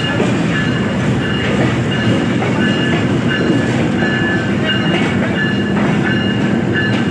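Bolan Mail passenger train running, heard from on board: a steady rumble of wheels and carriages, with short high squeals coming and going.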